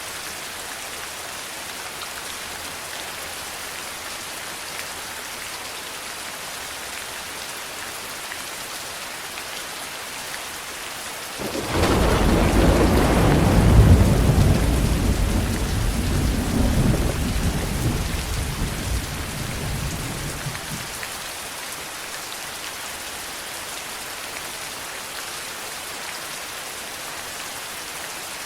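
Steady rain hiss with a thunderclap about twelve seconds in: it starts sharply, rumbles on with a second swell, and dies away over about nine seconds while the rain continues.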